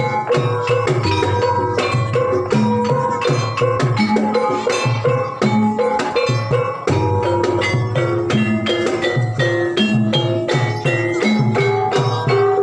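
Banyumasan gamelan music for an ebeg (jathilan) horse dance: mallet-struck keyed instruments ring out a busy repeating melody over a steady low hand-drum pattern.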